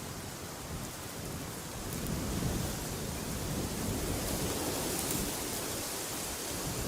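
Wind blowing in gusts: a steady rushing hiss with a low rumble that swells about two seconds in and grows stronger near the end.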